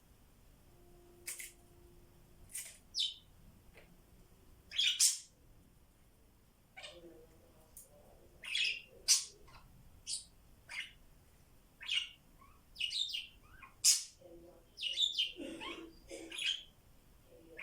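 Pet parrots giving short, scattered chirps and squawks, sparse at first and coming more often in the second half.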